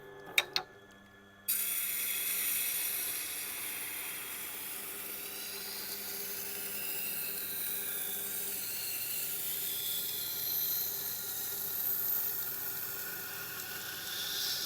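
Steel knife edge being ground against a Tormek T8 grinding wheel, raising a burr: a steady, high-pitched scraping hiss that starts abruptly about a second and a half in, after two short clicks, over the low hum of the grinder's motor.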